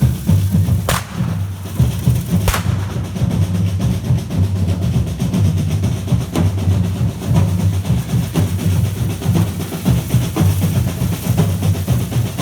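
Drums beating a steady, repeating rhythm with a heavy low beat, and two sharp cracks in the first few seconds.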